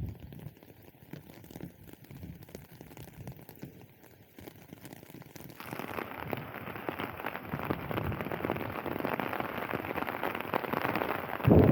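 Rain pattering, faint at first and growing much denser and louder about five and a half seconds in. A loud low thump near the end.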